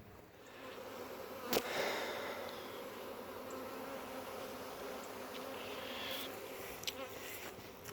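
A swarm of honey bees buzzing in flight, a steady hum. A sharp click comes about a second and a half in, and a smaller one near the end.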